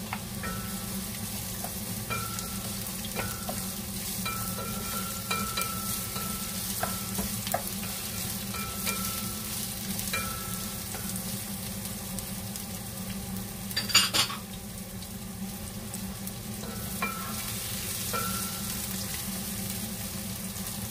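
Sliced red onions and garlic sizzling in hot oil in a pot, stirred with a wooden spatula, with short squeaks of the spatula against the pot now and then. A brief loud clatter about two-thirds of the way through.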